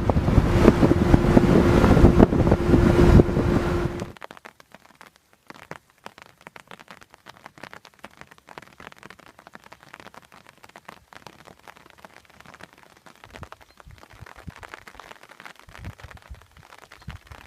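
Wind buffeting the microphone with a steady hum underneath, cutting off abruptly about four seconds in; a faint crackling noise follows.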